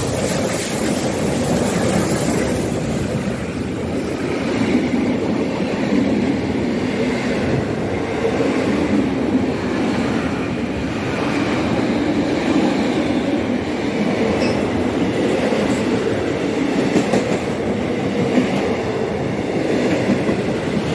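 Steam-hauled passenger train running through a station at speed: a loud, steady rush of the locomotive and then a long line of carriages going by, with the wheels clattering on the rails.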